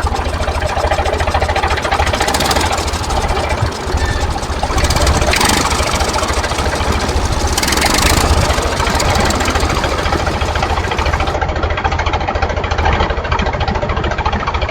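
Tractor engine running steadily with a rapid low knocking beat and a few brief surges.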